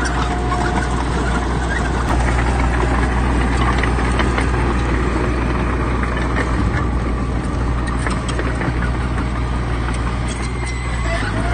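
Heavy diesel earthmoving machinery, bulldozer or dump truck, running steadily under load, with scattered sharp metallic clicks and clanks and a steady high whine that fades about a second in and returns near the end.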